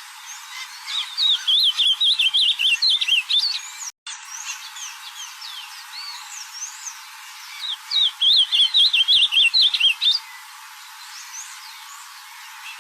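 Ultramarine grosbeak (azulão) singing two rapid warbled song phrases a few seconds apart, each about two to three seconds long, with fainter calls of other birds in the background.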